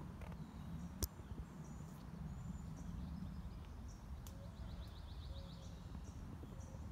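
Outdoor woodland ambience: faint, repeated high bird chirps and a short rapid trill over a steady low rumble, with one sharp click about a second in.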